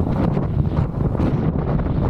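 Wind buffeting the microphone: a steady, dense low rumble.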